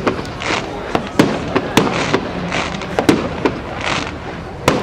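Fireworks display: a steady run of sharp bangs, roughly two a second, mixed with hissing, crackling bursts. The bangs echo back off the surrounding buildings.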